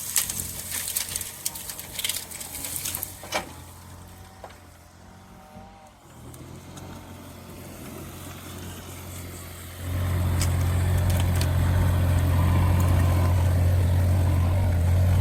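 Doosan DX35z mini excavator's diesel engine running low with sharp cracks and clicks in the first few seconds, then revving up about ten seconds in and running steadily louder as the machine works.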